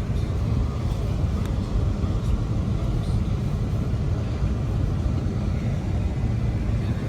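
Car's engine and road noise, a steady low rumble heard from inside the cabin.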